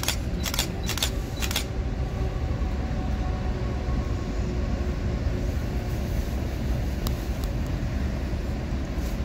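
CN freight train rolling past, a steady low rumble of locomotives and railcars on the rails. A few sharp clicks in the first two seconds.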